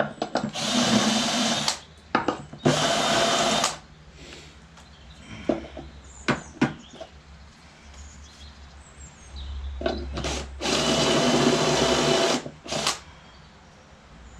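Electric drill run in three short bursts of about a second each, with scattered knocks and clicks between them.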